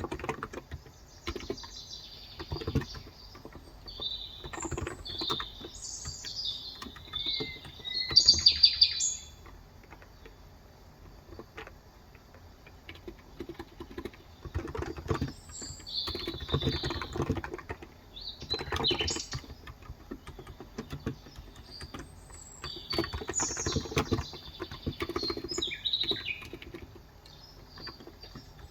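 Typing on a Cox Endeavor electrostatic capacitive keyboard with 35 g switches, in bursts of keystrokes with short pauses between. Birds chirp throughout, the loudest a rapid series of chirps about a third of the way in.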